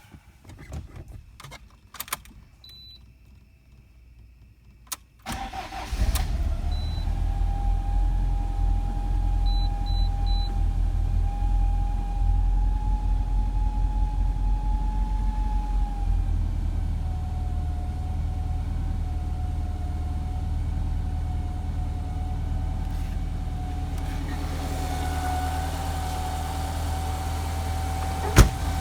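Lancia Delta Integrale Evo2's turbocharged four-cylinder engine started from cold: a few quiet clicks, then it cranks and catches about five seconds in and settles into a fast cold idle with a steady whine over it. About eleven seconds later the idle drops to a lower, steadier note as the engine warms.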